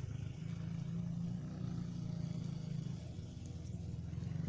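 Mini dirt bike's small engine running steadily, a low drone that eases off slightly partway through and swells again near the end.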